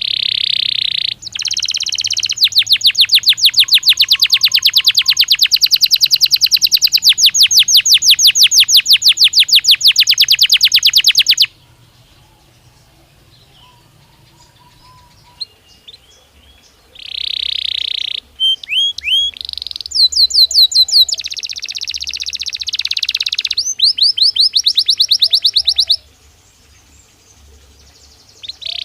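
Belgian canary singing: a long, fast trill of rapidly repeated notes lasting about ten seconds, then after a pause of several seconds a run of varied phrases with rising sweeps and quick trills, and a new phrase starting near the end.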